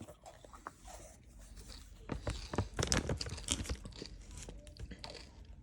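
Chocolate wrapper crinkling as it is handled and opened, a run of quick crackles, mostly between about two and five seconds in.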